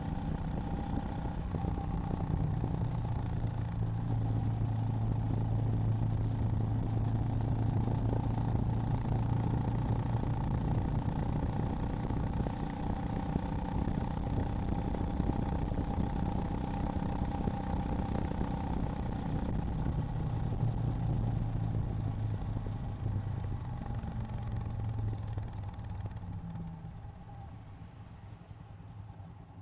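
Honda GB350's air-cooled single-cylinder engine running at a steady pace, easing off partway and picking up again. Near the end it drops off toward a slow, even idle thump.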